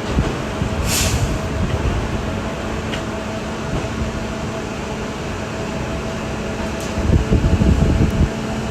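Railroad track-maintenance machine running steadily with an engine hum, a short sharp hiss about a second in and a few light clicks; a louder rumble comes in near the end.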